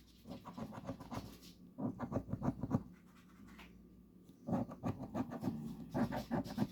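Scratching the coating off a $5 Monopoly scratch-off lottery ticket: quick scraping strokes in two bursts, with a pause between them.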